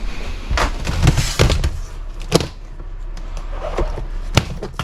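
Hard objects being picked up and set down on a workbench, a series of sharp clicks and knocks, with the loudest knocks about two and a half seconds in and again near the end.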